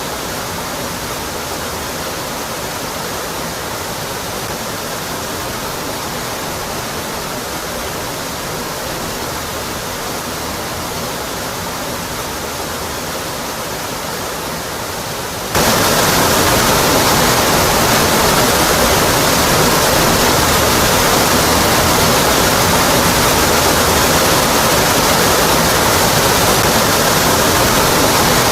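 Rocky Brook Falls waterfall pouring onto rock: a steady, even rush of water. About halfway through it suddenly becomes louder and fuller, then holds steady again.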